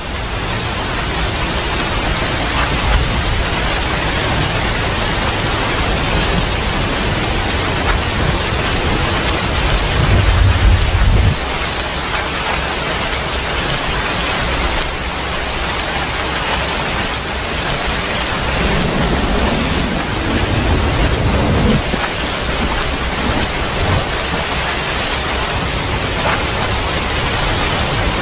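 Steady rain hissing, with low thunder rumbles: a loud one about ten seconds in that cuts off suddenly a second later, and a softer one near the two-thirds mark.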